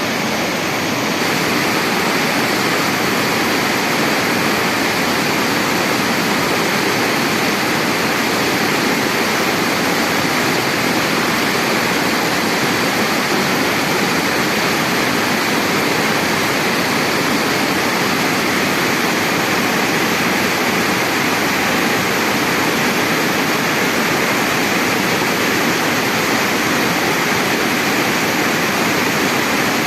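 Steady rushing water, loud and unbroken, such as a waterfall or fast stream; it steps up slightly about a second in.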